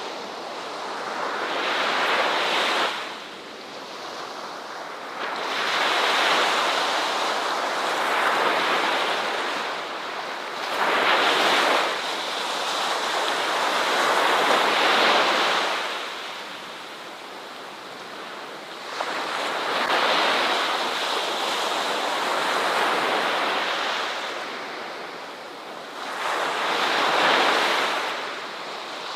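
Ocean waves breaking on a shore, each surge of surf swelling and washing back every few seconds, about half a dozen in all.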